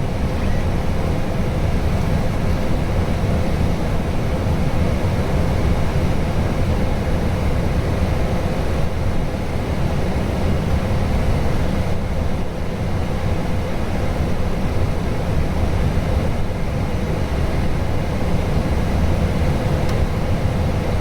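Steady low rushing noise inside the cockpit of an Airbus A320 in descent, with a faint steady tone running through it.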